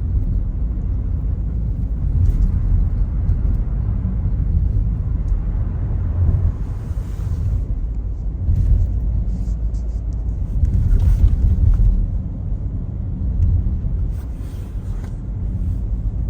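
Car driving, heard from inside the cabin: a steady low road and engine rumble, with a few faint hissing swells along the way.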